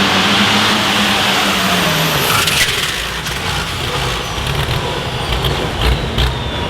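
Pulling vehicle's engine running hard at high revs, its pitch falling about two seconds in as it comes off the throttle, then settling into a lower, rougher rumble with scattered clicks and knocks.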